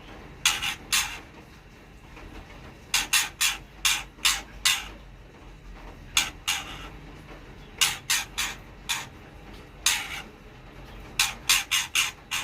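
Newly hatched murai chicks begging at feeding time: short raspy cheeps in quick clusters of two to five, repeated several times over a few seconds.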